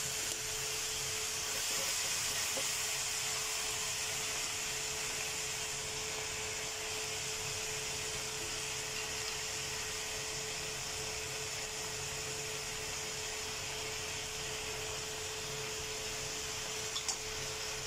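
Chicken wing tips sizzling in a pan with marinade sauce: a steady hiss with a constant hum beneath it, and a short clink near the end.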